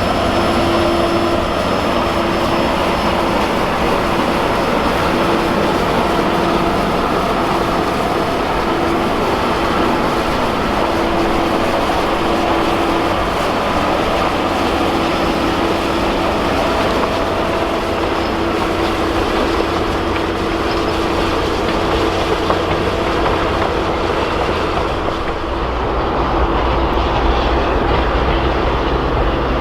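Kettle Valley Steam Railway passenger train running along the track: a steady rumbling clatter, with the wheels squealing on and off as a held tone. About 25 seconds in, the sound turns deeper and duller.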